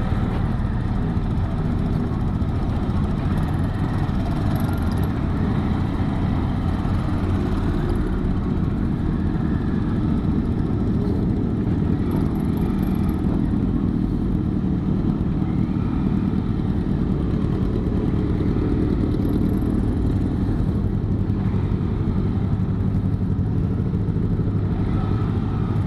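Yamaha XT 600E's single-cylinder four-stroke engine running steadily as the motorcycle is ridden along.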